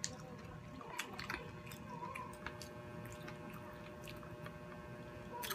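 Faint chewing and mouth sounds of people eating, with a handful of small, sharp clicks scattered through it.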